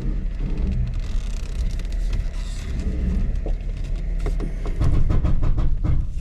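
Jeep rock-crawling at low speed: a steady low engine rumble, with crunching and cracking of rocks and gravel under the tyres, heaviest in a cluster of sharp cracks about four to six seconds in.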